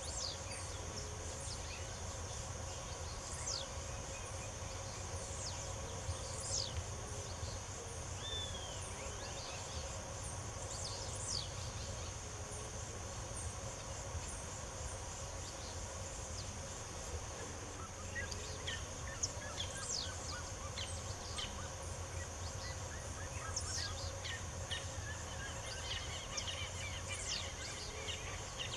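Birds chirping and calling in short, scattered notes, more of them near the end, over a steady high-pitched insect drone and a low background rumble.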